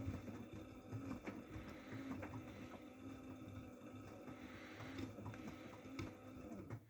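AEG front-loading washing machine running its intermediate spin after the prewash: a steady motor hum with scattered knocks and clicks from the turning drum. The sound drops off abruptly near the end.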